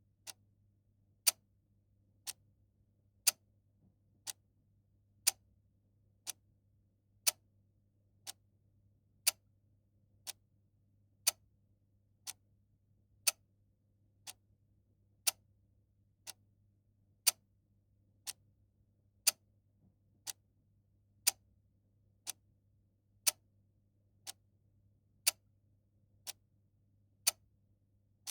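Clock ticking steadily at one tick a second, the ticks alternating louder and softer in a tick-tock pattern.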